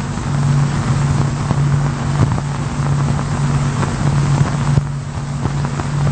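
A steady low mechanical drone, pulsing slightly, under an even hiss with scattered faint clicks.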